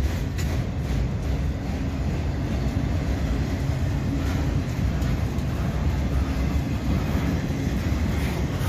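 Freight train of enclosed autorack cars rolling steadily past, a continuous low rumble of wheels on rail.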